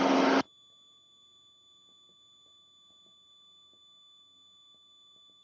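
Loud cockpit intercom audio cuts off abruptly about half a second in. Near silence follows, with a faint steady electronic whine of a few high tones, as when the intercom's voice-activated channel closes.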